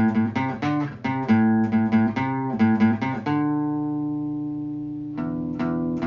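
Intro music: plucked guitar picking a rhythmic pattern, settling on a held chord about halfway through before picking resumes near the end.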